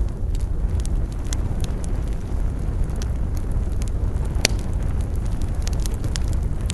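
Wood fire crackling, with scattered sharp pops and one louder snap about four and a half seconds in, over a steady low rumble.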